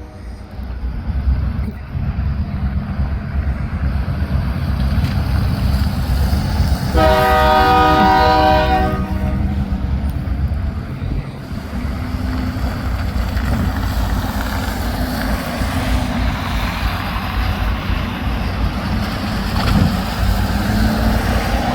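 Diesel locomotives (HLCX units 1083 and 3840) running with a steady low rumble as the train leaves, with one long horn blast of about two and a half seconds some seven seconds in.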